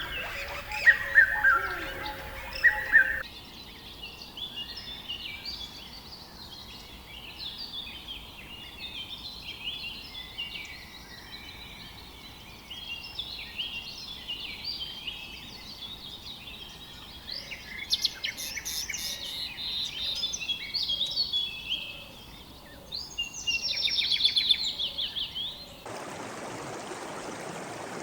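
A dense chorus of many birds chirping and calling over one another, with a fast trill shortly before the end. Near the end it switches abruptly to the steady rush of running water.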